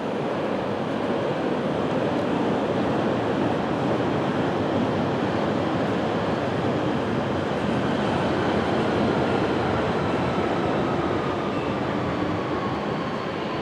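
A train running along the track with a steady rumble, and a faint whine falling in pitch over the last few seconds.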